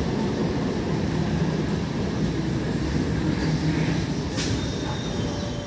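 Electric multiple-unit local train rolling past close by, a steady rumble of wheels and bogies on the track. One sharp knock comes about four and a half seconds in.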